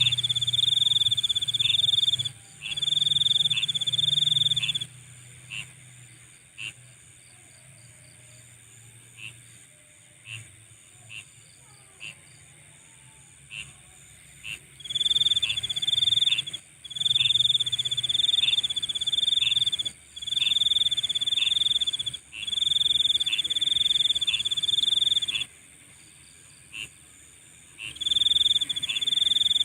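Night insects calling: one insect gives a loud, high-pitched pulsing trill in bouts of about two seconds, while another keeps up a steady, even higher continuous buzz. The trilling falls to single short chirps for about ten seconds from about five seconds in, then resumes; a low drone comes and goes underneath.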